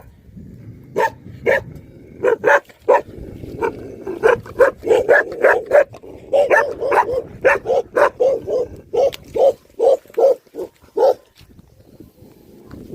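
Livestock guardian dog barking, a Himalayan bhote kukur type: a few spaced barks, then a fast, steady string of barks at about two to three a second that breaks off near the end.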